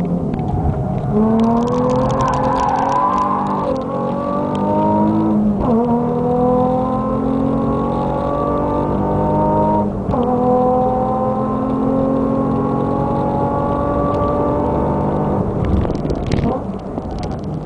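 Nissan 350Z's 3.5-litre V6 running hard through an Amuse full exhaust, heard from inside the cabin. The engine pitch climbs slowly, dips sharply and recovers twice, about five and a half and ten seconds in, then eases near the end.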